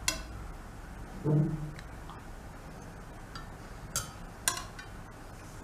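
A few sharp clicks of a knife against the cake dish or plate as the soft cake is cut: one at the start and two about four seconds in. There is also a short low hum about a second in.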